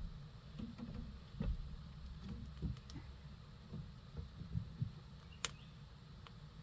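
Irregular dull low thuds and knocks with a few short sharp clicks, the loudest click about five and a half seconds in.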